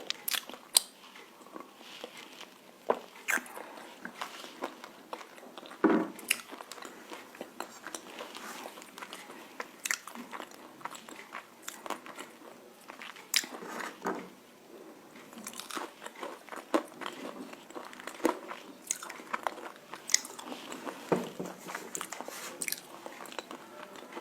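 Close-up biting and chewing of crunchy roasted nakumatt clay: sharp, irregular crunches every second or so, with softer chewing sounds between them.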